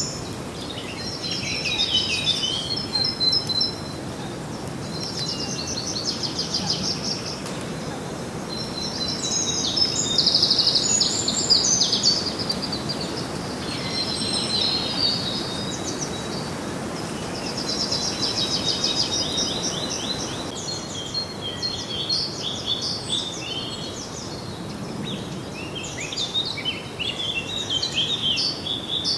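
Songbirds singing, with bursts of quick trills and chirping phrases that come one after another and sometimes overlap, over a steady low background noise.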